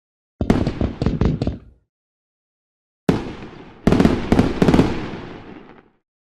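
Fireworks going off: a quick cluster of sharp bangs about half a second in, then, after a gap of dead silence, a single boom about three seconds in, followed by a run of rapid bangs with a crackling tail that fades out.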